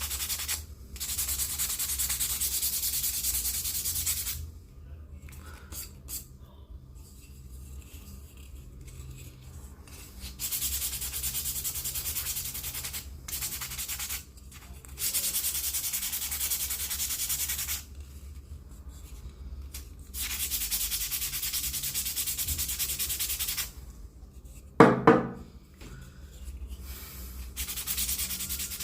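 Wooden scoop being sanded, in spells of a few seconds of steady rasping hiss with short pauses between. About three quarters of the way through comes one sharp knock with a brief ringing tone.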